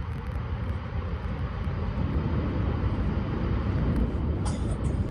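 Shinkansen train running at speed, heard from inside the passenger cabin as a steady low rumble of running noise.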